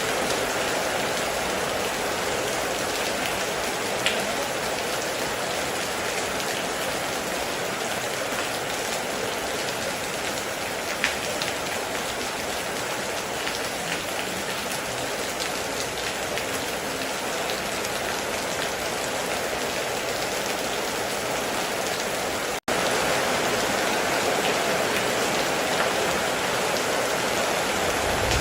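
Steady heavy rain pattering on a metal roof, with a few louder single drops ticking sharply about 4 and 11 seconds in. The sound cuts out for an instant about two thirds of the way through.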